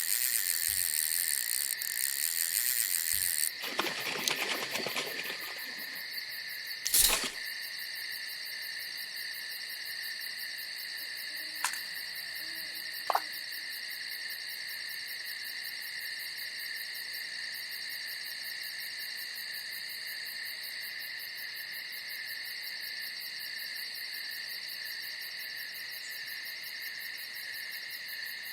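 Crickets and other night insects chirping in a steady, dense chorus. A rustling noise comes about four seconds in, then a sharp knock about seven seconds in, and two lighter clicks near the middle.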